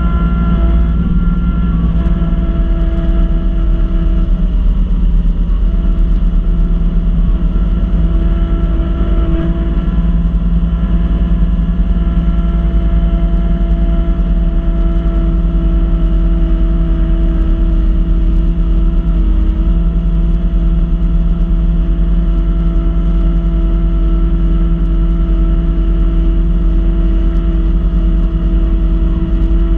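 Kubota B2650 compact tractor's three-cylinder diesel running steadily at working speed, driving a front-mounted B2782 snow blower. A steady pitched hum, with its pitch dipping briefly a couple of times, around five and nineteen seconds in.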